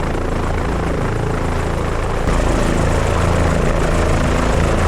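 Helicopter running at flight power with rotor and turbine noise, held in a toe-in landing with only the front of the skids on the slope. The noise is steady and gets a little louder about two seconds in.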